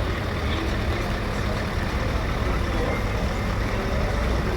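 Scania V8 truck engine running steadily with a low, even rumble.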